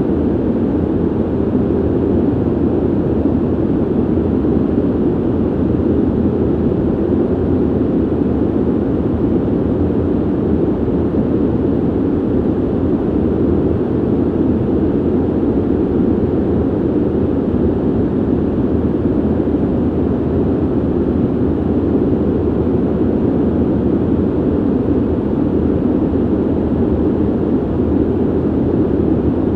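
Steady rushing noise of ventilation, low and muffled, with no rise, fall or break.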